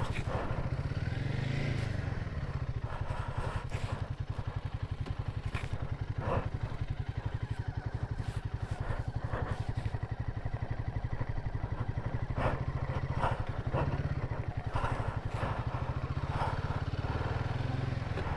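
Royal Enfield Himalayan 450's single-cylinder engine running steadily while riding, a fast, even pulsing with occasional faint clicks over it.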